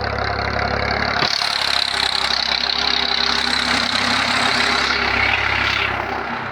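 Tractor engine running steadily. About a second in, a click is followed by a brighter, harsher noise over the engine that eases off near the end.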